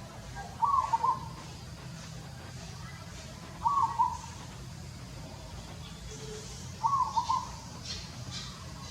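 A bird calling three times, each call a short run of a few pitched notes, about three seconds apart, over a low steady background hum.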